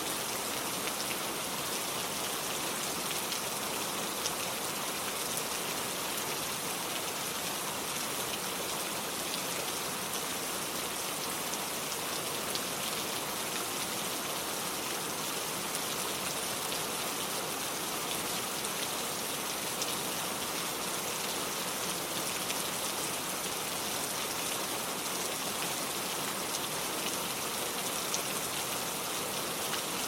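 Steady rain with a dense patter of individual drops ticking on surfaces, an even hiss that does not change.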